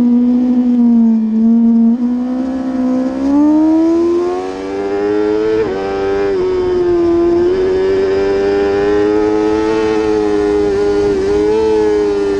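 Superbike racing motorcycle engine at high revs under hard acceleration. The pitch climbs for a couple of seconds, drops sharply at a gear change about halfway through, then holds high with small rises and falls.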